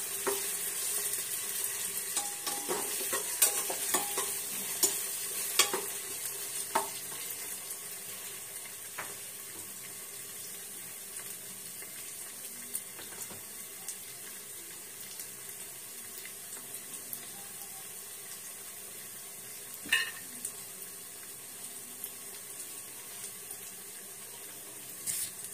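Peanuts, onions and garlic-ginger frying in oil in a steel pressure cooker: a steady sizzle. During the first several seconds a metal spatula scrapes and clinks against the pot as the mix is stirred. After that the sizzle goes on with only an occasional clink.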